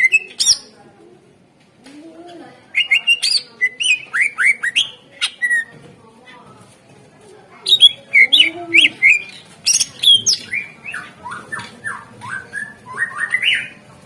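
Cucak ijo (green leafbird) singing: two long, loud phrases of rapid sharp chirps and quick slurred whistles, with a pause of about two seconds between them. A low, soft hooting note comes just before each phrase.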